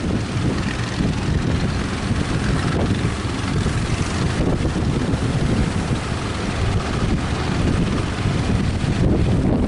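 Strong wind buffeting the microphone over the rush of rough surf, a loud, gusty, unbroken noise.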